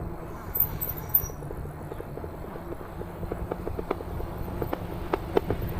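Low wind and road rumble while riding an e-bike, with irregular sharp clicks and rattles that come more often after about three seconds.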